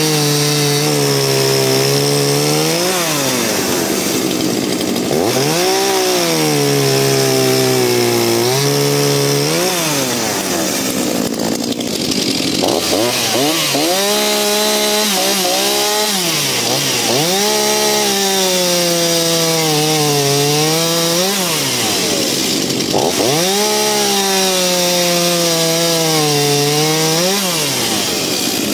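Two-stroke chainsaw making a series of cuts through a log: the engine revs up, pulls down and holds a lower pitch under load through each cut, then revs free and drops back as the cut ends, about six times over.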